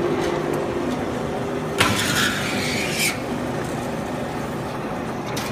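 A roll-forming machine for sheet-metal duct flanges runs with a steady mechanical hum. About two seconds in, a harsh metallic noise lasting about a second rises over it.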